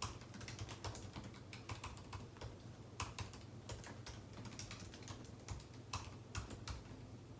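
Computer keyboard typing: a quick, irregular run of key clicks with short pauses between bursts, over a faint steady low hum.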